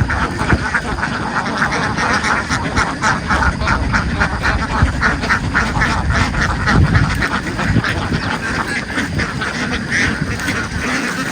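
A flock of domestic ducks quacking continuously, many calls overlapping.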